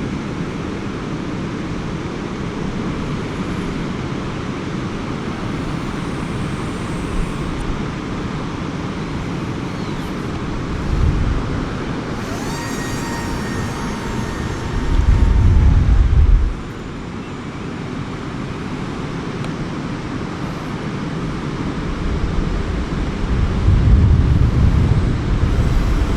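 Strong wind buffeting the microphone: a steady rush with heavy gusts about ten seconds in, again around fifteen seconds, and near the end. A faint thin whine is briefly heard under it in the middle.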